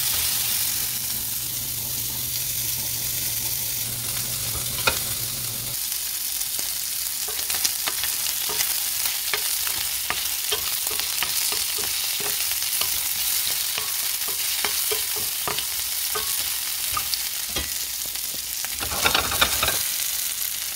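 Pieces of pork sizzling in hot fat in a frying pan, stirred with a wooden spoon that makes frequent light clicks and scrapes against the pan. A low steady hum cuts off about six seconds in, and the sizzling and clatter grow louder briefly near the end.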